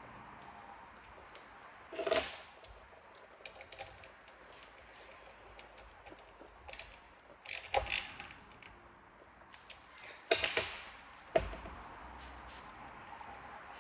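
Hand tools and hardware being handled during a rebuild: scattered clicks, taps and knocks in small clusters, the loudest two sharp knocks a few seconds before the end.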